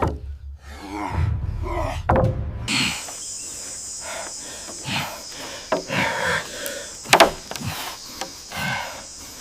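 Wooden knocks, clicks and rubbing of building work, over a low rumble that cuts off about three seconds in. After the cut a steady high hiss runs under the knocks, with one sharp crack about seven seconds in.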